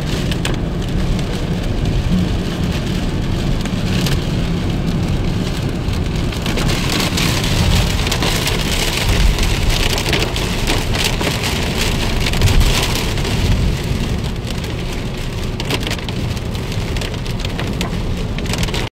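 Heavy rain pattering on a car, a dense patter of drops over a steady low rumble.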